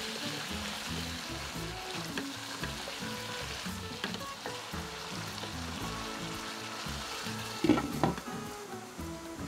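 Chicken, liver and vegetables sizzling in a frying pan while a spatula stirs them, with a few small scrapes. Near the end a glass lid clatters down onto the pan, the loudest sound.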